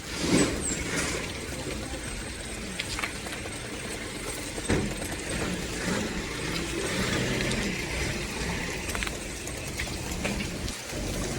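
Riding a bicycle on a road: steady rolling and rattling noise with scattered mechanical clicks, and a louder sudden knock about a third of a second in.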